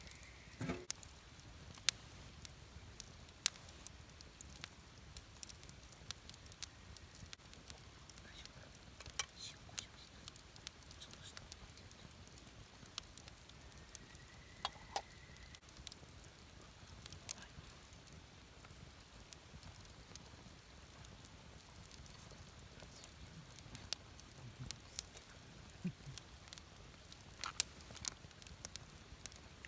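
Wood campfire burning, crackling with irregular sharp pops over a soft steady hiss.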